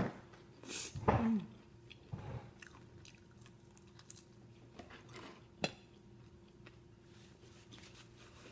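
Chewing and biting food close to the microphone, with scattered sharp crunches and mouth clicks, loudest about a second in.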